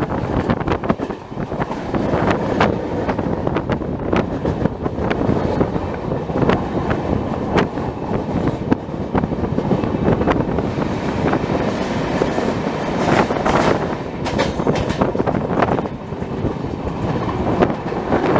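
Passenger express train coach running along the track, with a steady rumble and irregular sharp knocks from its wheels passing over rail joints.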